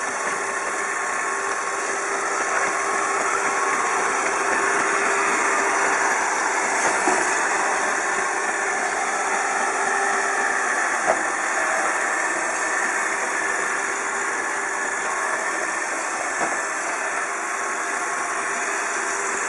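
iRobot Roomba 780 robotic vacuum running: a steady whirring hum of its motor and brushes, with a few brief knocks along the way.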